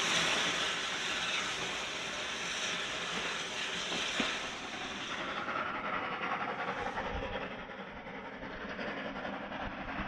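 A train running by on the rails, with a hiss and the clatter of wheels. It is loudest for the first four or five seconds, then the hiss drops away and the train sound softens, with a single knock about four seconds in.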